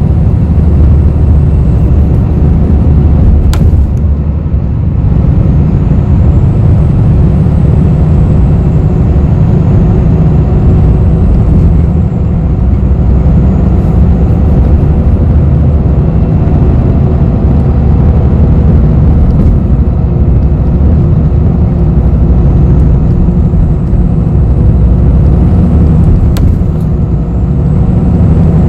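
Interior of a moving city bus: a loud, steady low rumble of engine and road noise, with a faint high whine that slowly rises and falls. Two sharp clicks sound, one a few seconds in and one near the end.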